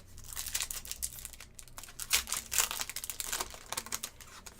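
A trading card pack wrapper being crinkled and torn open by hand, with an irregular run of crackling rustles.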